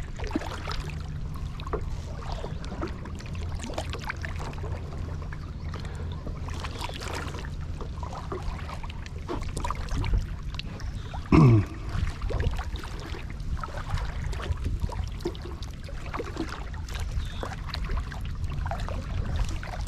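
Kayak paddling: paddle strokes with water trickling and lapping around the boat, and a brief falling sweep a little past the middle.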